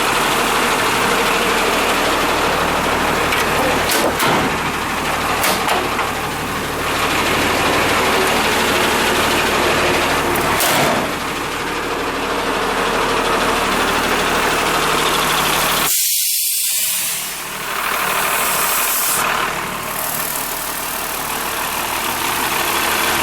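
The bus's 5.9-litre mechanical Cummins diesel idling steadily, with a few sharp clicks in the first half. The engine sound drops out for about a second roughly two-thirds of the way through.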